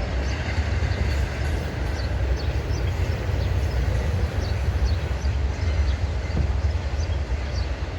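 Steady, loud low rumble of outdoor background noise, with short faint bird chirps scattered over it.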